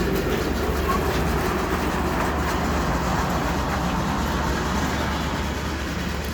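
Miniature steam train running along its track, a steady mechanical rumble and clatter.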